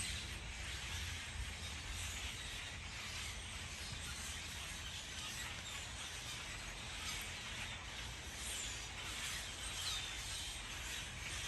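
Steady outdoor background hiss with a low rumble. A few faint, short bird chirps come in the second half.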